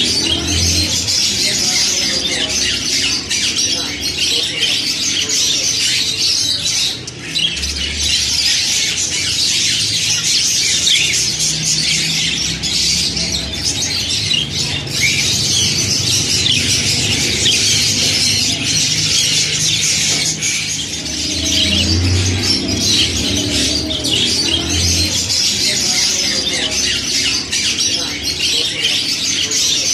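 A group of pet budgerigars chattering and squawking without pause, many high chirps and calls overlapping.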